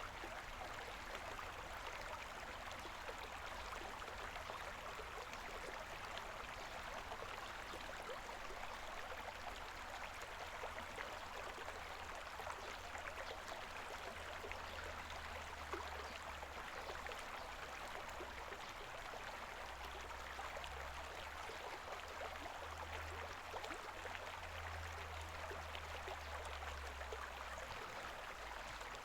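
Koma River babbling: shallow water running over stones in a steady, even rush, with a faint low rumble underneath.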